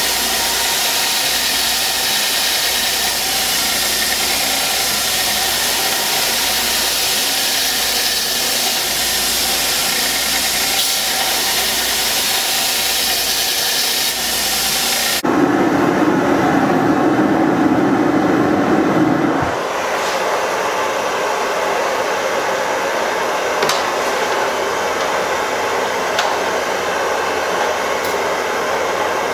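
Forge burner and blower running with a steady rush. About halfway through, the sound changes abruptly to a lower, louder rush for about four seconds, then settles to a quieter steady hum with a couple of faint clicks.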